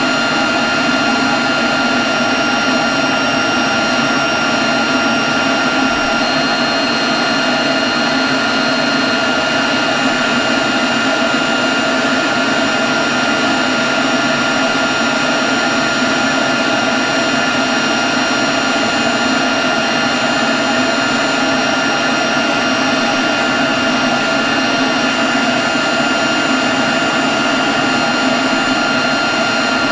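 Leaf blower running steadily at a constant speed: a loud rush of air with a steady high-pitched whine over it.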